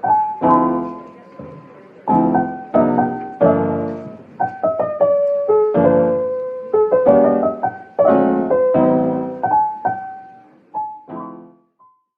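Background piano music: chords and a melody played in phrases, each note struck and then dying away, trailing off near the end.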